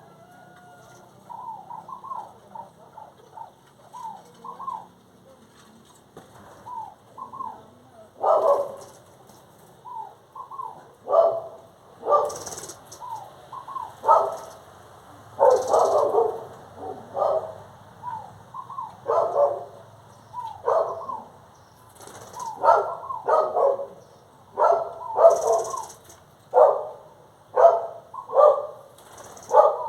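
Birds calling over and over in short rising-and-falling calls, with louder, harsher calls coming thick and fast from about eight seconds in.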